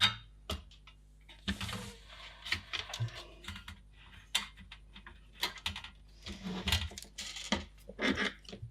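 Irregular light clicks, taps and rustles of a thin shield being handled and fitted back over a computer's circuit board.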